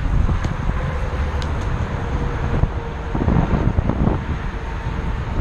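Wind rushing over the microphone of a recumbent bike riding fast downhill, with a steady low rumble from the tyres on the trail.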